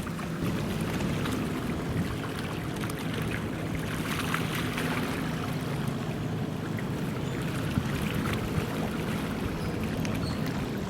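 Steady low drone of a large ship's engine, with water and wind noise over it and a brief swell of hiss about four seconds in.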